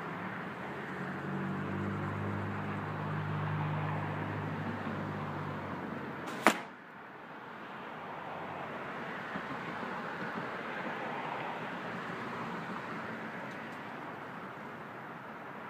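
A single shot from a Bowtech Assassin compound bow: one sharp crack about six and a half seconds in, over steady outdoor background noise.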